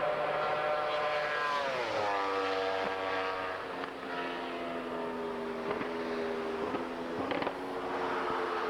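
A high-revving vehicle engine passing at speed on a highway: its pitch drops steeply about two seconds in as it goes by, then it runs on at a steady lower pitch, with a few short clicks near the end.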